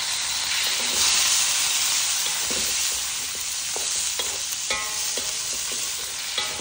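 Chili and vegetables sizzling in hot oil in a frying pan, the sizzle growing louder about a second in. A metal spatula stirs and clicks against the pan several times in the second half, one clink ringing briefly.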